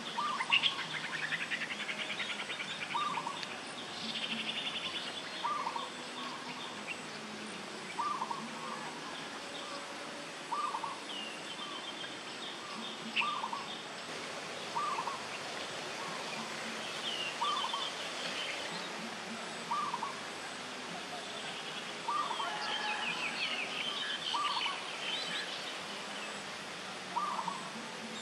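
Birds calling: one repeats a short note about every two to three seconds, while fast, higher twittering trills come and go several times.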